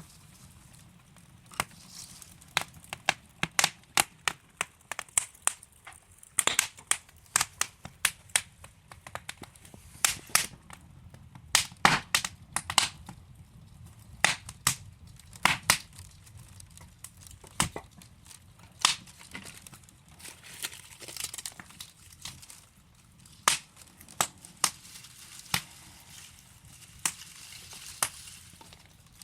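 Wood fire burning in a fireplace, logs crackling with sharp, irregular pops over a low steady hiss. The pops come thickest in the first two-thirds and thin out toward the end.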